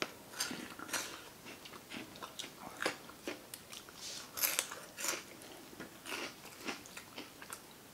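Flamin' Hot Cheetos being bitten and chewed close to the microphone: irregular crisp crunches and crackles, the loudest cluster about four and a half seconds in.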